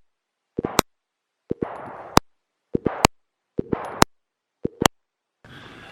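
An editing transition: short snippets of sound cut off abruptly by dead silence about once a second, each cut marked by a sharp click.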